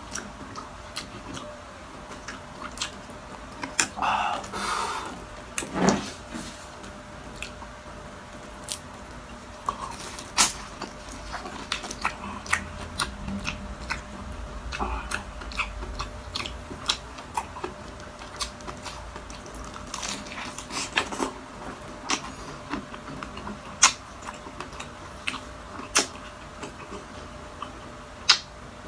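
Close-miked chewing and biting of crispy deep-fried food, chicharon bulaklak or chicken skin, with sharp, irregular crunches throughout and a denser crackling stretch about four to six seconds in.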